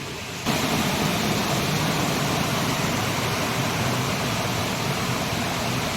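Steady rushing of a waterfall, a loud even roar of falling water that starts abruptly about half a second in.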